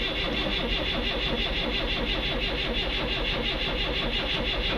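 A 1965 Datsun PL320's engine turning over steadily in a cold start, hard to start after sitting for months.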